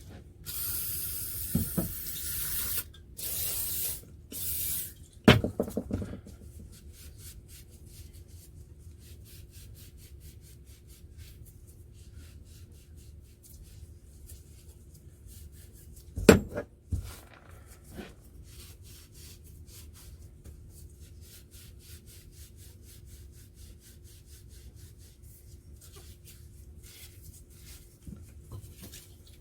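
Three short hissing sprays in the first five seconds, then quiet wiping and faint small ticks as the car jack's metal parts are cleaned down and oiled. Two sharp knocks of metal parts come about five and sixteen seconds in.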